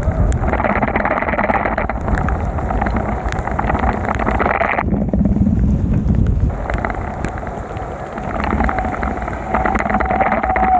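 Rain spattering on an action camera's microphone during a ride in heavy rain, with wind rumble, many small ticks of drops and the noise of wet road and traffic.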